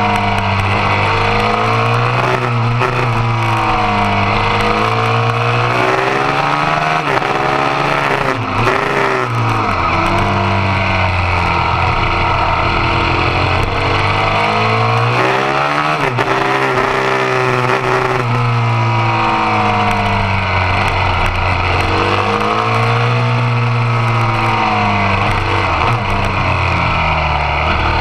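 Motorcycle engine at racing speed, its revs climbing and dropping back over and over as the bike is ridden hard around a track.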